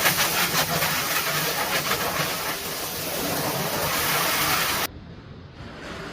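Loud, steady rushing noise that cuts off suddenly about five seconds in to a much fainter hiss.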